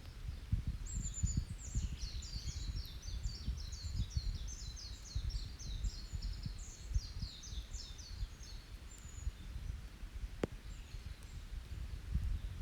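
A songbird sings a long, rapid string of short high twittering notes lasting several seconds, over the low rumble of an open campfire. The fire gives one sharp crackle near the end.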